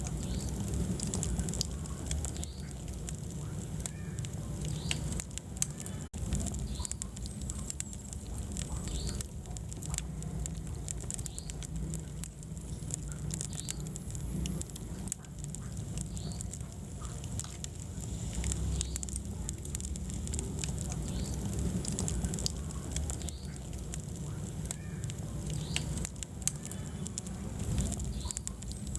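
Wood fire burning in a fireplace: scattered crackles and pops over a low, steady rumble of flames.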